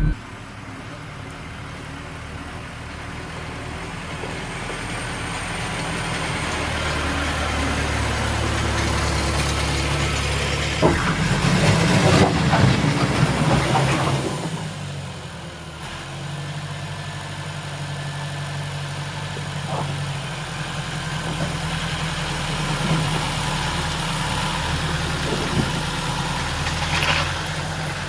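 Site dumper's engine running, with a louder stretch of a few seconds about eleven seconds in, as it revs harder.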